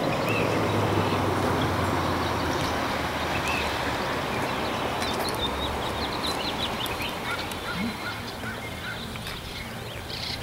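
Birds calling, with many short high chirps over a steady hiss that slowly fades.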